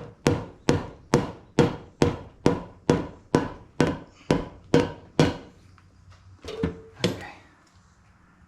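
Rubber mallet striking in a steady run of about a dozen blows, roughly two a second, then two more after a short pause, tapping a new fluid-coated seal into place on a loader's hydraulic cylinder.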